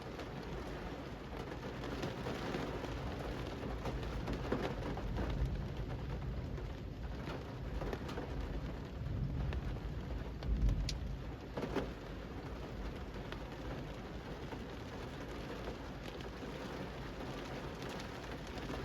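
Steady rain falling on a city street and pavement, with drops ticking, and a low rumble swelling briefly past the middle.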